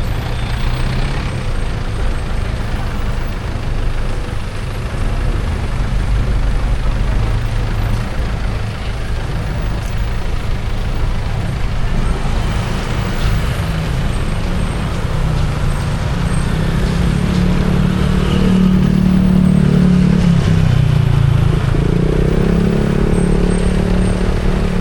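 Vehicle engine and road noise: a steady low rumble that grows louder later on. About 22 s in, an engine note rises as a vehicle accelerates.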